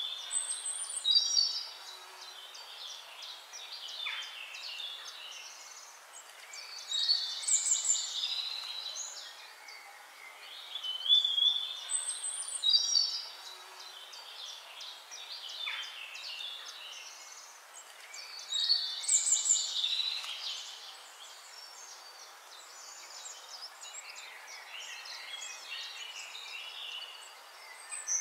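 Birdsong: bursts of high chirping and trilled phrases every several seconds, with fainter chirps between, over a steady hiss.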